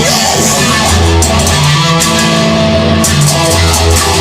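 Rock music with distorted electric guitar, bass and drums playing an instrumental passage between sung lines.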